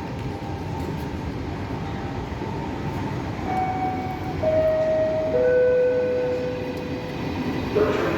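Train running past with a steady rumble of wheels on rail. From about the middle, a series of steady tones steps down in pitch, the last held for a couple of seconds.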